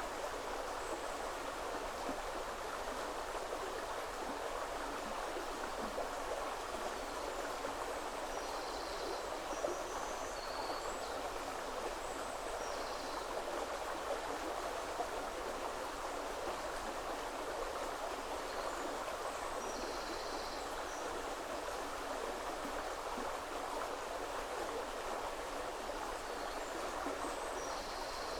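River water flowing steadily over stones, an even rushing with no break. A few brief, faint high chirps of a small bird come now and then, a couple about ten seconds in, one about twenty seconds in and one near the end.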